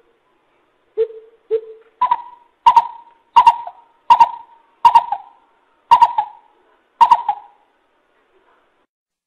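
Coucal (bubut) hooting: two low hoots, then a run of about eight higher, evenly spaced hollow hoots, roughly one and a half a second, each trailing off in a short echo.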